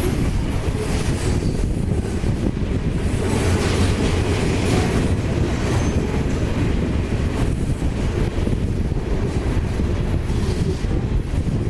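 Freight train rolling past, its rail cars making a steady, heavy rumble.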